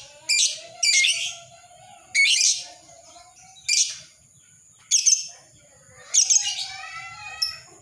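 Lovebird calling with short, shrill, harsh chirps about once a second, then a longer run of rapid chatter near the end: the lovebird's 'ngekek' chattering song.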